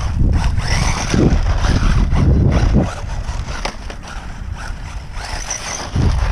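Wind buffeting the microphone with a heavy low rumble, strongest in the first three seconds, while the high whine of a small electric RC truck's motor comes and goes twice.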